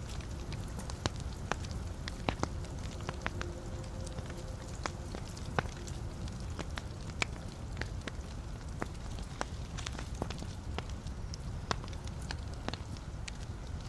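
Wood fire burning in a fireplace, with a steady low rush of flames and frequent irregular pops and crackles from the burning logs. A faint soft whistling tone sounds for a few seconds early on.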